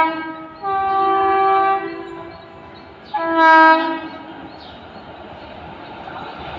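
WCAM-3 electric locomotive's multi-tone horn sounding in blasts: one ending just after the start, a longer one of about a second, and a shorter one about three seconds in. A rumble of train noise grows between and after the blasts as the train approaches.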